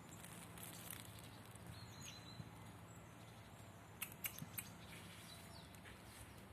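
Faint outdoor nature ambience with a quick cluster of sharp clicks about four seconds in and a few faint bird chirps.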